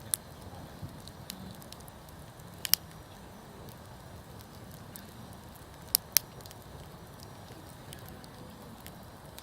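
Wood campfire crackling, with a few sharp pops, two of them in quick pairs about three seconds apart.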